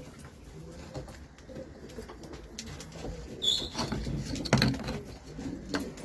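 Domestic pigeons cooing in low, repeated phrases. A short high chirp comes about three and a half seconds in, and a sharp knock about a second later.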